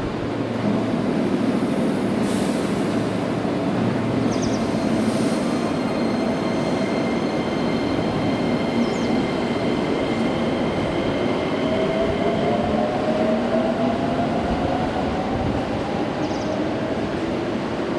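Electric train running through the station, a dense rumble of wheels on rails with thin steady high tones; about two-thirds in, a motor whine starts rising steadily in pitch as the train picks up speed.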